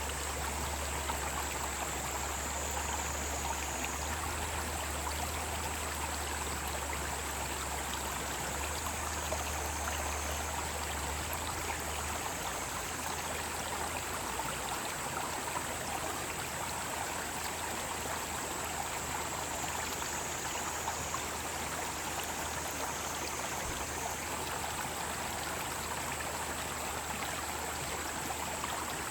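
Mountain stream flowing in a steady, even wash of water, with a continuous high drone of cicadas.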